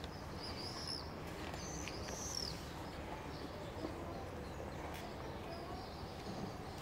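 A few high bird chirps in the first two or three seconds, over a faint, steady outdoor background noise.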